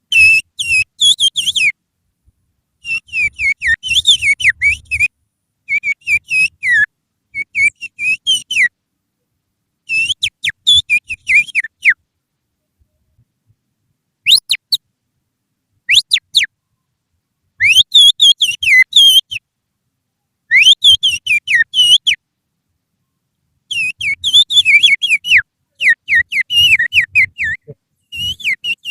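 Human finger whistling that imitates the song of an oriental magpie-robin (kacer), used as a lure call to set the bird singing. It comes as rapid chirps and warbles in phrases of a second or two with short pauses, and two single long upswept whistles near the middle.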